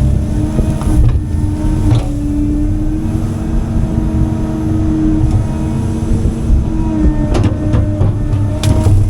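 CAT 310 excavator's diesel engine and hydraulics running steadily under work, with a low rumble and a constant whine. A few sharp knocks come near the end.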